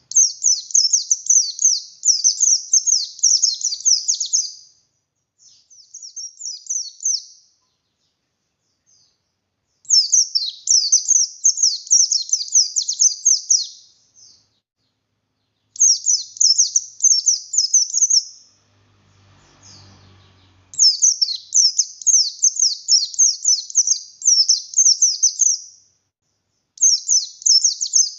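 Pleci buxtoni (white-eye) singing vigorously in runs of rapid, high twittering notes. There are five runs of a few seconds each, with short pauses between them.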